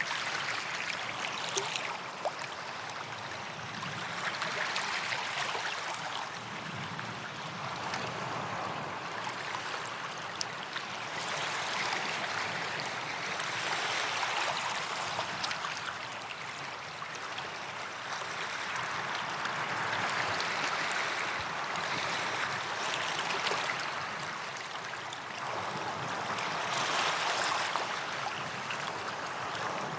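Small waves breaking and washing up a sandy beach, the hiss of surf swelling and easing every few seconds, with a few faint clicks.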